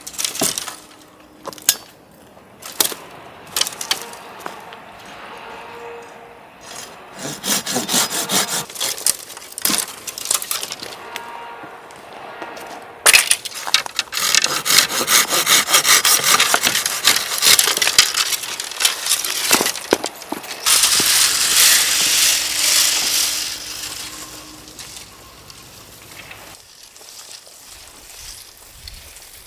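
Firewood being cut with a hand saw: scattered knocks and cracks of wood, then two long runs of quick, rhythmic back-and-forth saw strokes, the second run the loudest.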